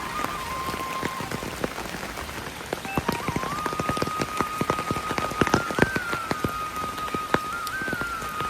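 Rain falling steadily, with many close, sharp drops dripping and splashing that grow thicker from about three seconds in. A thin held melody of background music runs over it.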